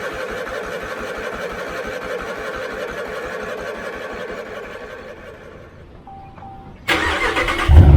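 Riding lawn mower engine running with an even pulse, fading away over a few seconds, then a sudden loud burst of sound and a louder, deeper running sound near the end.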